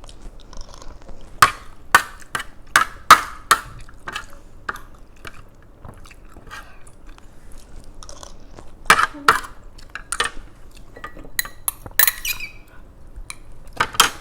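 A person chewing and eating up close, with sharp mouth smacks and clicks scattered through, the loudest clustered in the first few seconds and again near the end.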